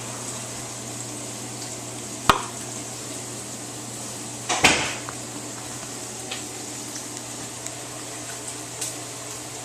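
Kitchenware clinking over a steady low hum: one sharp ringing clink about two seconds in, then a louder clatter near the middle, with a few light ticks after.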